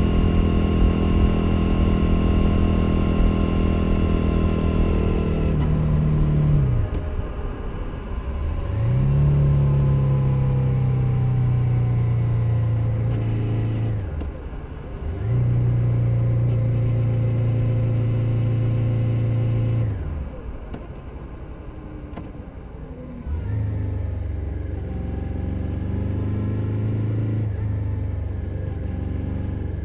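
2021 Suzuki SV 650's 645 cc V-twin engine running under way, holding steady revs between several drops and pick-ups as the throttle is closed and opened again. The longest quieter off-throttle stretch comes about two-thirds of the way through.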